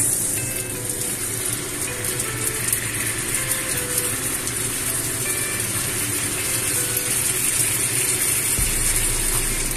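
Salmon steaks sizzling in a frying pan with a steady hiss as teriyaki sauce is poured over them.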